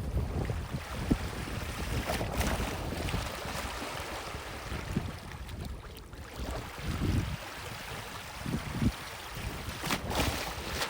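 Strong wind buffeting the microphone in gusts, over a steady hiss of wind and gently lapping sea water.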